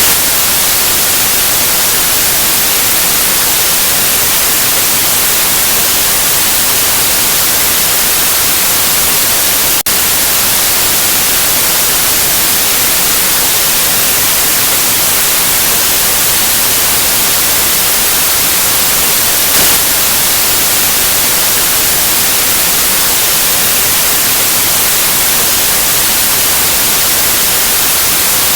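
Steady white noise, a loud even hiss heaviest in the treble, with one momentary dip about a third of the way through.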